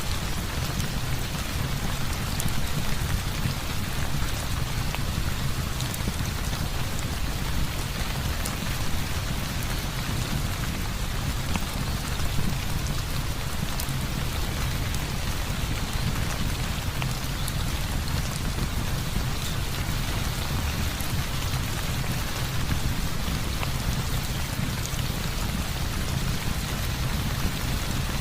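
Heavy rain falling steadily, an even hiss with a deep steady rumble beneath it and occasional faint sharp ticks.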